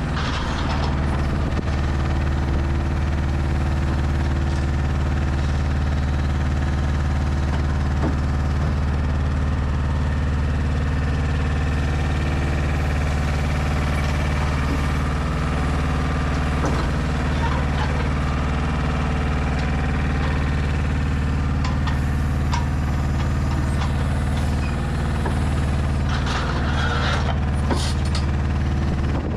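Mercedes Actros truck's diesel engine running steadily at a low, even note, with scattered light clicks and knocks and a short hiss near the end.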